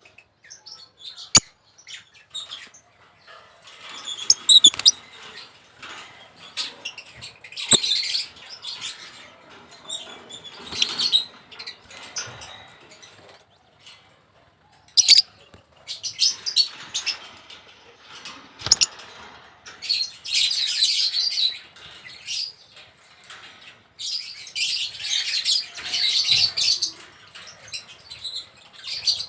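Small birds chirping and twittering on and off, with wing flutters and a few sharp clicks.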